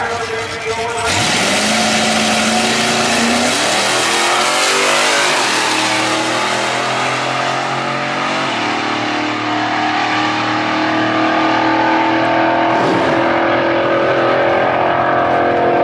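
Drag-racing Ford trucks launching and running down the strip at full throttle: a loud engine noise that comes in suddenly about a second in and stays loud, its pitch shifting as the run goes on.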